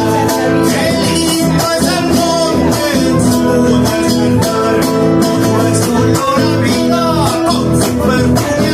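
Live Argentine folk music from acoustic guitars, playing steadily without a break.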